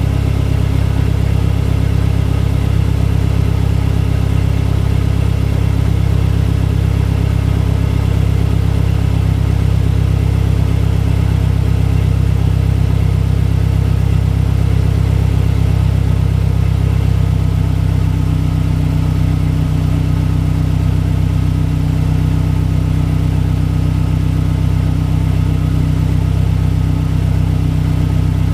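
Turbocharged engine with a Garrett GTX3071R turbo and an external wastegate, running steadily at idle. Its tone shifts slightly about two-thirds of the way through, with a faint unevenness in the low note after that.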